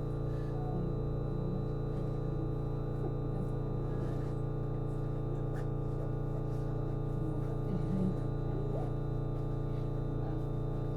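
The Komatsu DMF15HZB-G diesel engine of a JR East HB-E210 hybrid railcar running steadily, heard inside the car as a constant low drone layered with many steady tones, plus a thin high whine.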